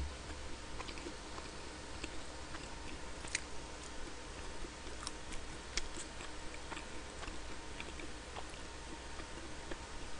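A person chewing food quietly with closed lips, with a few sharp clicks scattered through, over a steady hiss.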